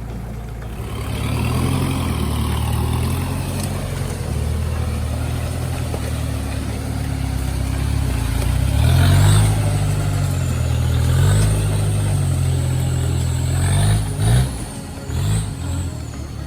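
Off-road vehicle engine revving and labouring, its pitch rising and falling as the throttle is worked, with a few short blips of the throttle near the end.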